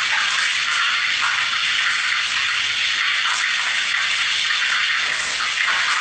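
Steady sizzling of food frying in hot oil, with a few faint pops.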